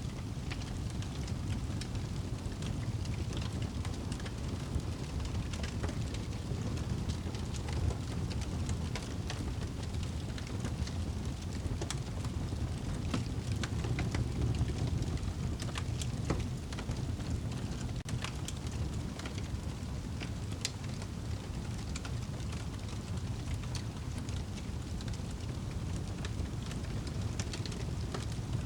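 Wood fire burning in a fireplace: a steady low rumble of the flames with frequent small, irregular crackles and pops from the burning wood.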